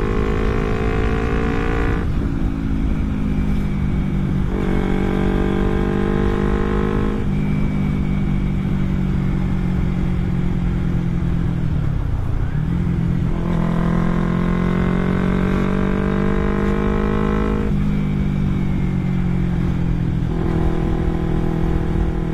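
Exhaust note of a carburetted Kawasaki Ninja 250 parallel twin through a non-original Akrapovic aftermarket muffler, ridden on the road: the engine pulls hard several times, about five seconds in, around the middle and near the end, easing off between, with the revs dipping and climbing back about twelve seconds in. Wind buffets the helmet-mounted microphone throughout.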